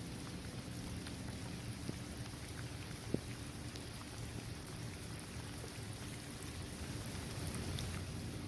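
Steady rain falling on a basketball court, trees and grass, with scattered individual drop taps and one sharper drip about three seconds in.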